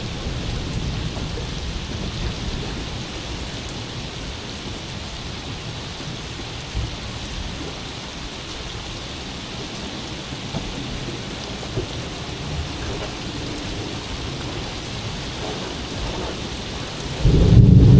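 Steady rain falling during a thunderstorm, with a low rumble of thunder fading early on. Near the end a much louder, deep thunder rumble breaks in suddenly from a close lightning strike.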